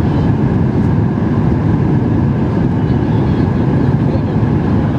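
Steady cabin noise inside a Boeing 737-8 MAX: the rumble of the jet engines and the airflow over the fuselage, even and unchanging.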